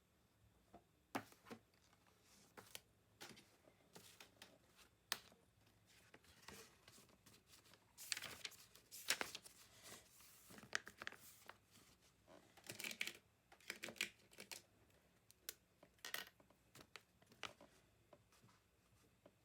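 Faint paper rustling and crinkling with scattered small clicks and taps, the sound of handling papers and objects on a desk. The rustling is busiest in the middle stretch.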